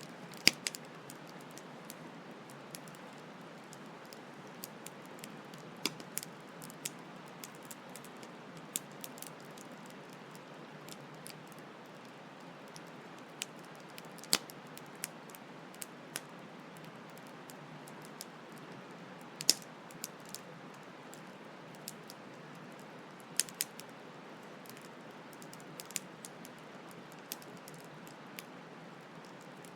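Campfire crackling, with irregular sharp pops and snaps, a few much louder than the rest, over a steady hiss of flowing stream water.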